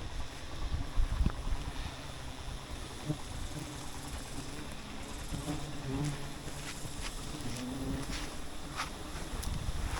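Wild bees buzzing around the hive, a wavering drone that drifts in pitch, with scattered sharp clicks over a low rumble.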